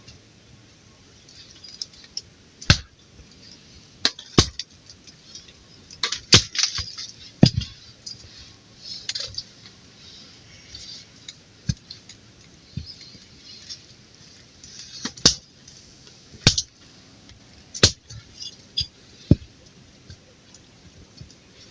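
Irregular sharp knocks and clinks, about a dozen spread unevenly, with soft rustling between them.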